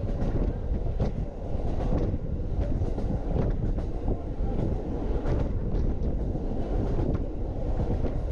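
Sightseeing train car of the Norokko train running along the track: a steady low rumble of wheels on rails and the car body, with scattered short clicks and knocks.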